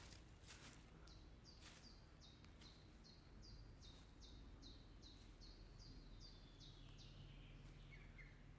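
A small bird chirping faintly: a steady run of short, high notes, each falling in pitch, two or three a second, over a quiet background.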